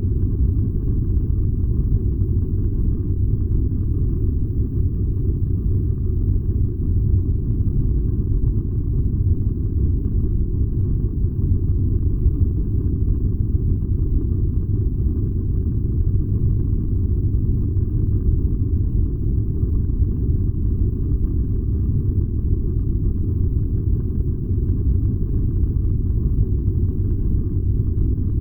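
Furnace running with a steady low rumble that does not change.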